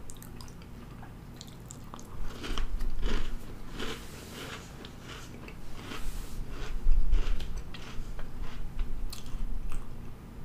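A person chewing a bite of baked cookie: a run of crunching with mouth clicks and smacks.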